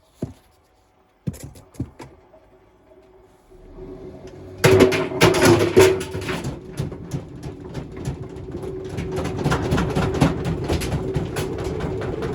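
A few clicks and knocks, then about four and a half seconds in a machine starts up and keeps running loudly with a steady hum and dense, continuous rattling.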